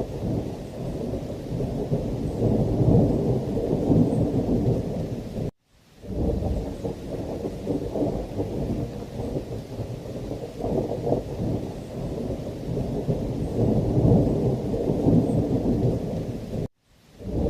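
Thunderstorm ambience: a deep, continuous rumble of rolling thunder with rain, swelling and easing every few seconds. The sound cuts out to silence for a moment about five and a half seconds in and again near the end, then comes straight back.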